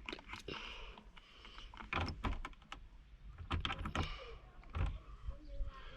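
Irregular sharp clicks and taps of small parts as aftermarket knobs are worked onto the dashboard control shafts, with the ball detent being lined up to the flat of each shaft.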